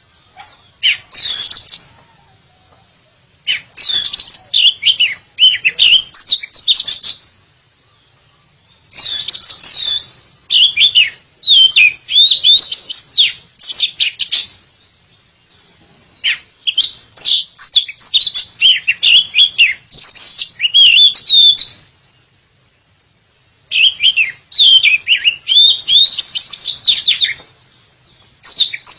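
Oriental magpie-robin (kacer) in full song: rapid, varied whistled phrases, high-pitched, in bursts of two to six seconds with short pauses between them.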